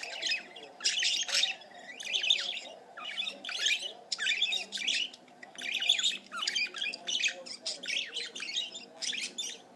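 Budgerigar chattering excitedly: a fast stream of short scratchy warbles, chirps and squawky notes in bursts every half second or so.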